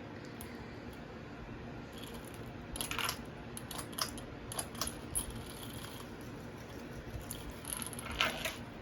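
Hampton Bay Rothley II ceiling fan running on low with a steady hum, while its metal pull chain is tugged and clicks and rattles several times, slipping around in the switch.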